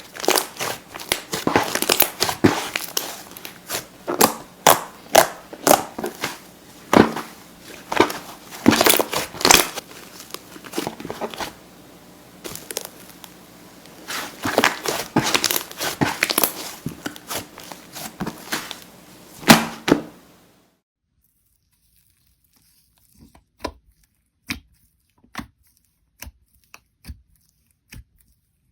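Slime being pressed and squeezed by hand, giving a dense run of crackling, popping clicks that cuts off abruptly about twenty seconds in. A few isolated soft pops and clicks follow.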